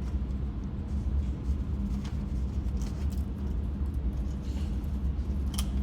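Steady low rumble and hum with a couple of faint clicks; no gunshots.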